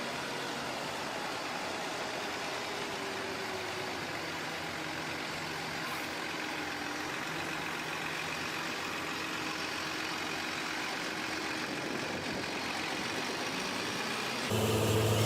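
Heavy truck engine running steadily, its pitch drifting slightly, growing suddenly louder near the end.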